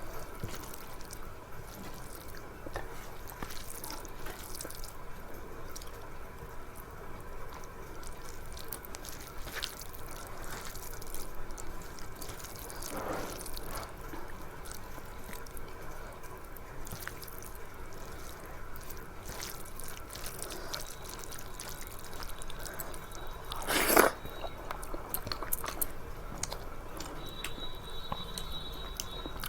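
Close-up wet eating sounds: soft smacking and chewing, with many small moist clicks. One louder sharp crunch comes about three-quarters of the way through.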